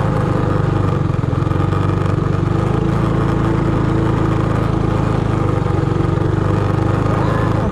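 Small gas minibike engine running steadily under way, holding an even speed without clear revving.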